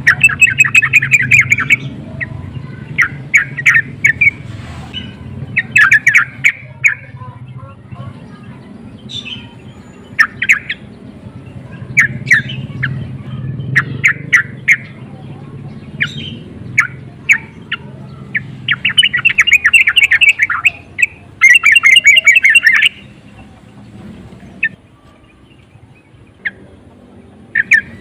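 Yellow-vented bulbul calling in quick, chattering bursts of short clipped notes, with dense runs at the start and again about two-thirds through, thinning to scattered single notes near the end. These are the excited calls used to provoke other bulbuls. A low steady hum runs underneath.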